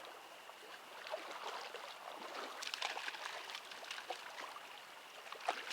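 Mountain stream water running, with a cluster of small splashes and trickles about halfway through.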